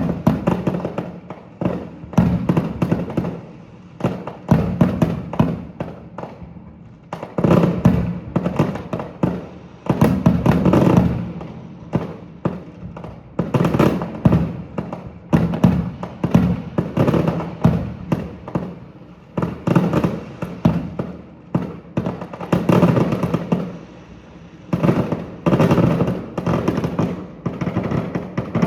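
Fireworks display: aerial shells bursting in rapid volleys, many sharp bangs and crackles crowding together in waves that swell and fade every second or two.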